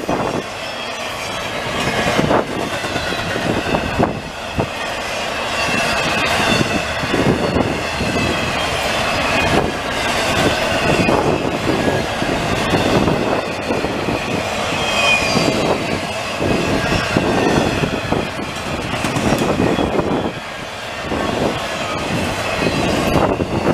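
Freight train cars carrying double-stacked containers rolling past at speed. The wheels clatter steadily over the rail joints in repeated clicks, with a high wavering wheel squeal at times.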